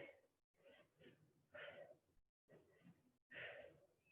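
Faint, short breaths of a person exercising, a string of quick puffs through the mouth while holding a glute bridge.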